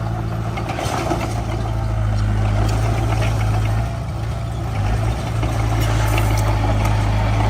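Diesel engine of heavy earthmoving equipment running steadily, dipping briefly in level about four seconds in.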